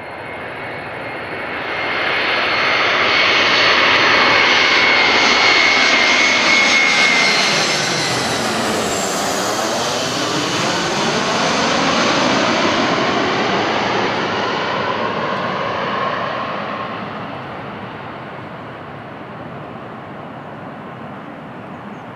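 Boeing 737-400 jet engines passing close by on landing. The jet noise swells with a steady high whine over it for the first several seconds, is loudest through the middle as the aircraft passes, then slowly fades as it moves away.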